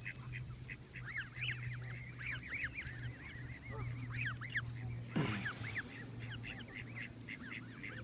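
A flock of pond waterfowl calling: many short, overlapping calls in a constant chatter. There is a steady low hum underneath, and one brief falling swish about five seconds in.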